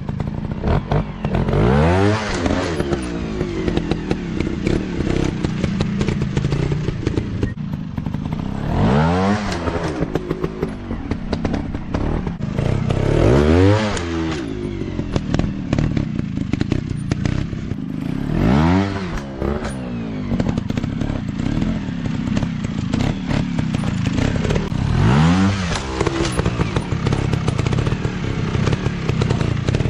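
Off-road motorcycle engines revving up and dropping back, about five times, over a steady engine rumble, with clatter and knocks from the bikes on rough ground.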